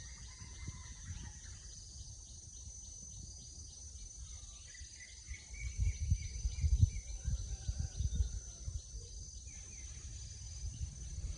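Insects drone steadily at a high pitch, with a regularly pulsing chirp and occasional bird calls over it. From about halfway through, uneven low rumbling thumps come in and are the loudest sound.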